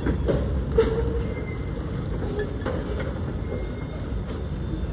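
Freight train of tank cars rolling past: a steady rumble of steel wheels on the rails with scattered clicks at the rail joints, and a brief wheel squeal about a second in.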